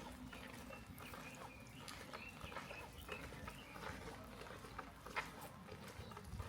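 Quiet rain ambience with scattered drips and ticks, and faint calls of an animal in the village.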